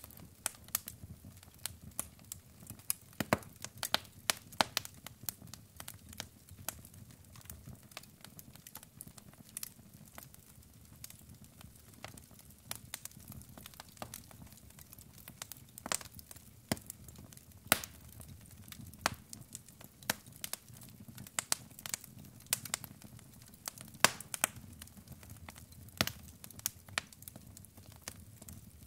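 Wood fire crackling: logs burning with irregular sharp pops and snaps, several a second, over a soft low rumble of flame.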